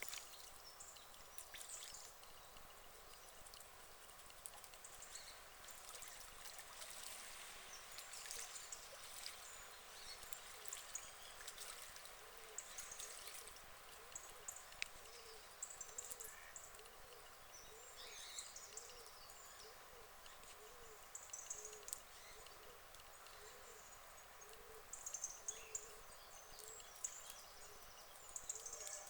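Faint pond ambience: trickling water under scattered small high chirps of birds, with a run of soft low calls repeating about once a second through the middle.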